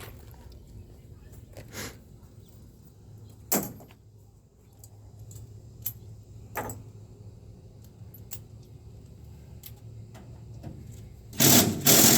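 Scattered sharp metallic clinks and knocks from hand tools and truck-bed hardware, over a steady low hum. Near the end a much louder rattling clatter lasts about a second and a half.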